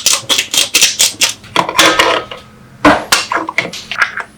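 Kitchenware clattering: a quick run of knocks and clinks, a brief pause a little after two seconds in, then more knocks.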